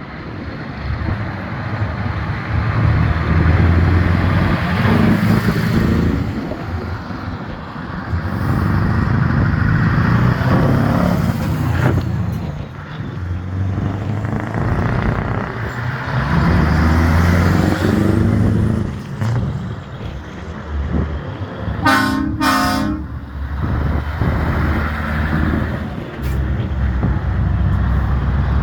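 Old trucks driving past one after another, their diesel engines rumbling and swelling as each one passes and then fading. About two-thirds of the way through, a truck horn gives two short toots.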